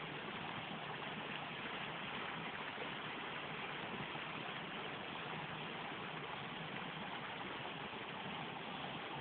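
Waterfall: water falling and rushing steadily, an even hiss without breaks.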